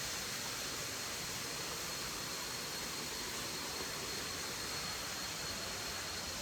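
Steady rushing hiss of falling water from a waterfall, with a thin, steady high-pitched tone over it.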